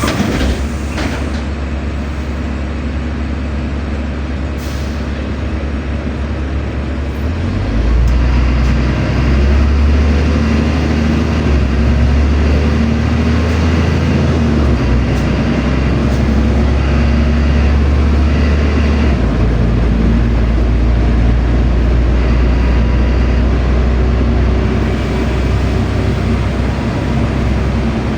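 Interior of a LiAZ-5292 low-floor city bus: the engine runs at low revs, then about eight seconds in the bus pulls away and the engine drone grows louder. It changes step several times as the automatic gearbox shifts up while the bus gathers speed.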